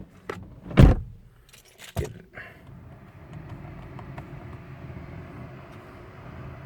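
A heavy thump about a second in and a click near two seconds, then the Rolls-Royce Ghost's twin-turbo V12 cranks briefly, catches and settles into a steady, quiet cold idle.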